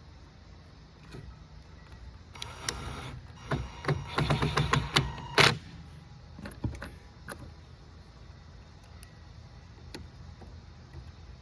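Hand work with screws and small hardware: a flurry of clicks, knocks and rattles a couple of seconds in, the sharpest knock near the middle, then a few scattered ticks.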